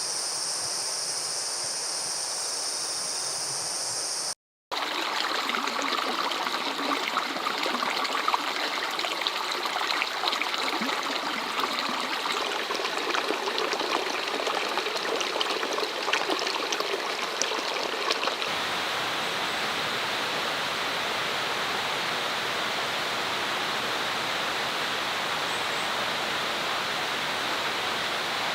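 Steady rushing noise like flowing water, with a brief dropout about four seconds in. Scattered crackling ticks sit over it until about eighteen seconds in, after which the rush is smooth and even.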